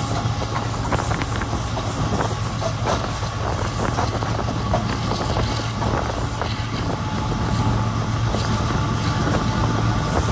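Passenger train running on the rails: a steady rumble and hum with irregular clacks of the wheels over rail joints.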